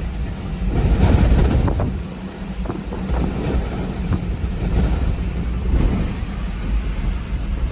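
Storm-force wind gusting hard, with a deep rumble of wind buffeting the microphone that surges strongly about a second in. A few light knocks and ticks come through in the middle of the gusts.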